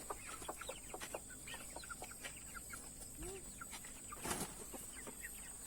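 Chickens clucking softly in short, scattered calls, with one brief louder noise about four seconds in.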